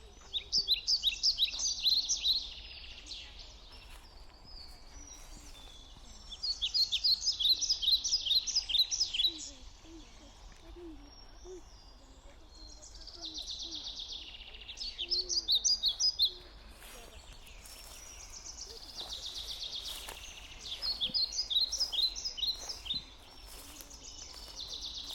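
A songbird repeatedly singing a fast phrase of rapid high notes, each phrase lasting two to three seconds and coming about five times, roughly every six seconds.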